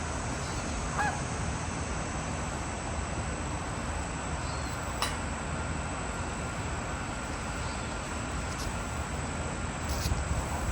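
Steady rushing background noise with one short honk-like bird call about a second in and a single sharp click near the middle.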